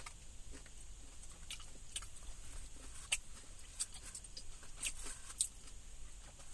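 A person chewing food with the mouth closed: soft, irregular wet clicks and smacks.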